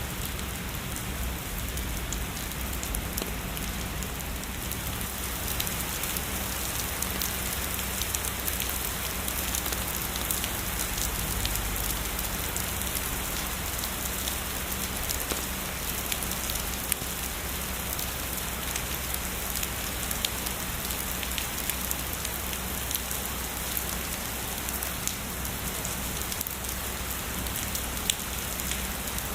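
Steady heavy rainfall hissing on a surface, with individual raindrop taps scattered throughout.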